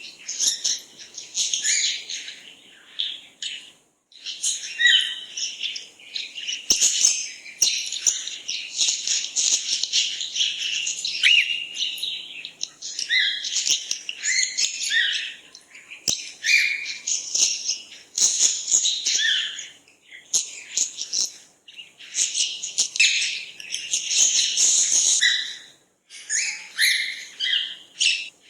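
Songbirds chirping and singing, many short calls overlapping in a busy chorus with a few brief lulls.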